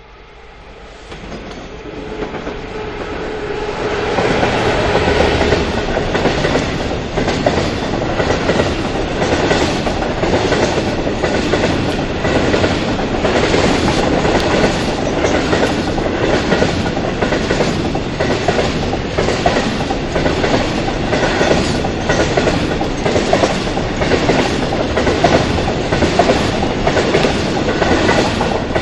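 Class 66 diesel-hauled coal train passing, the sound building over the first few seconds as it approaches. The wagons' wheels then click over the rail joints in a steady clickety-clack, about one and a half clicks a second, until the sound cuts off suddenly at the end.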